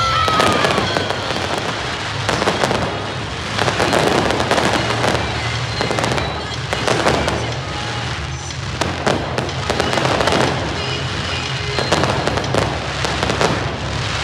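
Fireworks display going off: repeated bangs and crackling bursts throughout, with music playing underneath.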